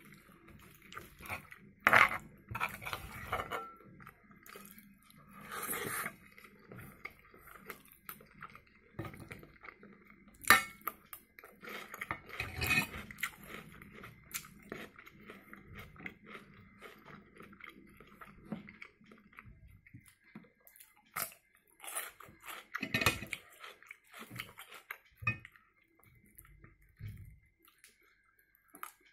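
Close-miked chewing and mouth sounds of someone eating fried eggs and sausage, with a few sharp clinks of a metal spoon and fork against a frying pan.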